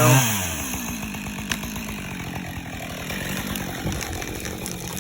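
Husqvarna two-stroke chainsaw falling back from a rev right at the start, then idling steadily. A single sharp click comes about a second and a half in.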